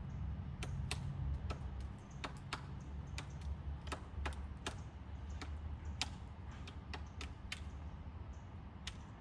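Woodpecker pecking at wood: single sharp taps at an uneven pace, about two a second, over a low rumble.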